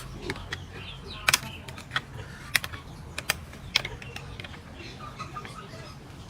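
A series of irregular sharp clicks and light knocks, about a dozen spread unevenly, like small hard objects tapping together.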